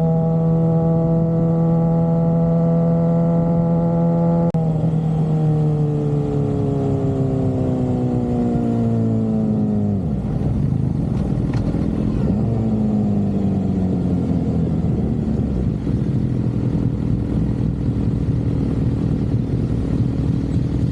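Suzuki GSX-R750's inline-four engine heard while riding: a steady held note for the first few seconds, then the revs fall smoothly for about five seconds. They pick up briefly about twelve seconds in, then settle into steady running under road and wind noise.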